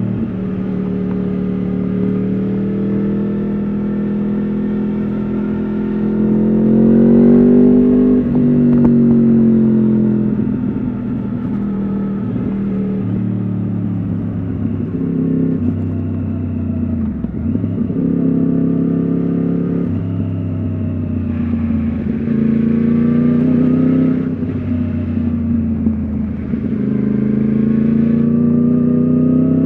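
Yamaha R1 RN22's crossplane inline-four running through an Akrapovič exhaust while being ridden: the revs climb and drop, with stepwise jumps in pitch at the gear changes. It is loudest on a rising pull about seven seconds in.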